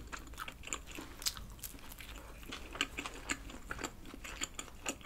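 Close-miked chewing of a mouthful of meat pizza: irregular small clicks and smacks of the mouth, with no talking.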